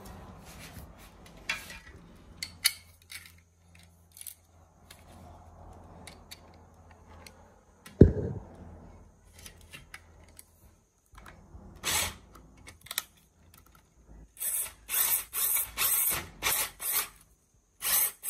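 Electric crosshead screwdriver driving screws into a roof cargo basket's plastic connectors and metal bars: the motor runs steadily for several seconds, a sharp knock comes about halfway through, and a run of rapid ratcheting clicks comes near the end.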